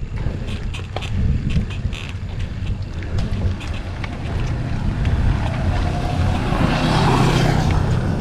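Wind buffeting the action-camera microphone during an uphill bike ride, a steady low rumble with scattered pops. In the last few seconds a motor vehicle passes, swelling up and fading away.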